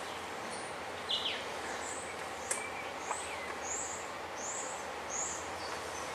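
A small bird chirping: a run of short, high chirps, about four in quick succession in the second half, over a steady background hiss and low hum. A couple of faint clicks come in the middle.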